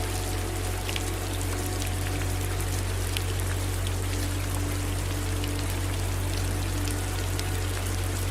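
Steady rain with many separate drop ticks over an even hiss, and a steady low rumble underneath.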